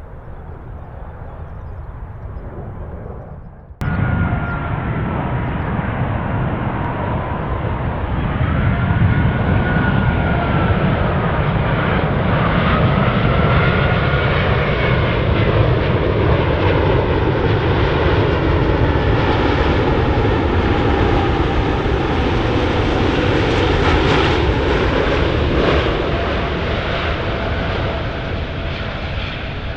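Quieter jet noise cuts off suddenly about four seconds in. It gives way to a Qantas Airbus A380 on its landing approach: a loud, deep engine rumble with whining tones that glide up and down in pitch as it passes, staying loudest through the middle and easing slightly near the end.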